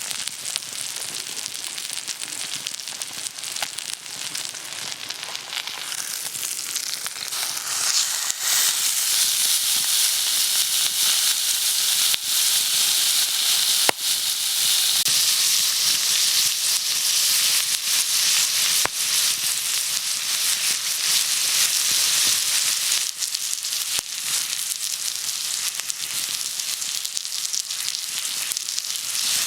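Food frying in a pan, with a steady sizzle that grows clearly louder about eight seconds in and a few sharp pops of spattering fat.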